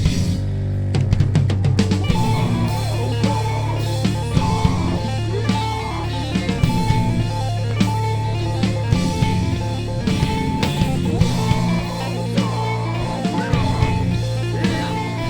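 Live rock band playing an instrumental passage: guitar over a steady bass line and drum kit, with a quick run of drum hits near the start before the beat settles.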